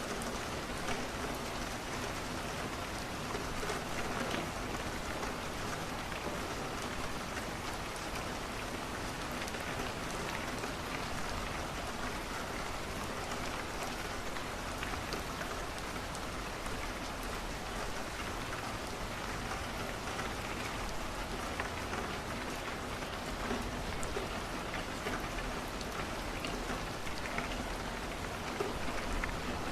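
Steady rain falling on a window, with scattered small pops and ticks of a crackling wood fire.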